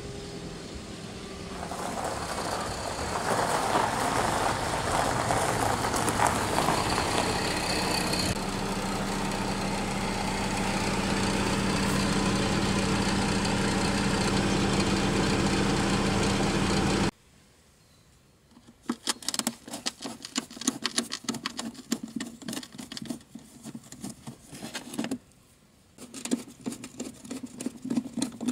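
Škoda Octavia car engine running, its note shifting a little over a second in and again about eight seconds in, then holding steady until it cuts off abruptly after about 17 seconds. After a brief quiet comes a run of quick, irregular clicks and scrapes as a screwdriver works screws out of the plastic front wheel-arch liner.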